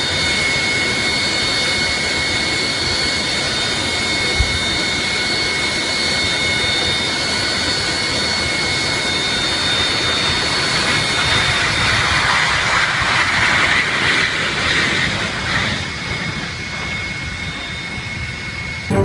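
Jet aircraft engines running with a steady rush of noise and a high, whining tone. The noise swells in the middle and eases again, and there is a single brief knock early on.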